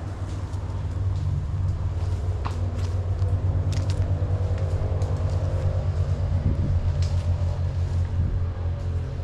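A motor running with a steady low rumble that pulses quickly, with a few short sharp clicks over it.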